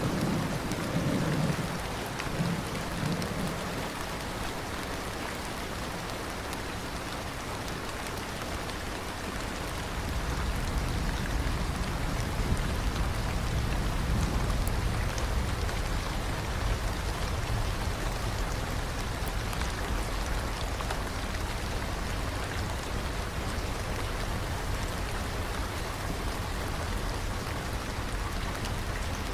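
Steady rain hiss, with a roll of thunder dying away in the first couple of seconds and a low distant rumble setting in about ten seconds in.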